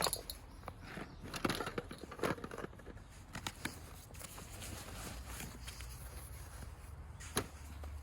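Scattered rustles and light knocks of something being handled, with one sharper click about seven seconds in.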